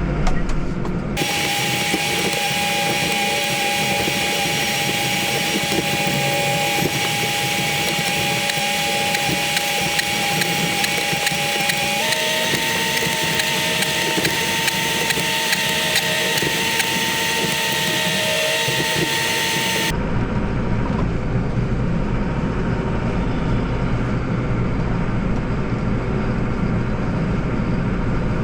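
Tractor and snowblower running. A steady low engine rumble gives way, about a second in, to a louder hiss with steady whining tones that step up in pitch about halfway through. The rumble returns about two-thirds of the way through.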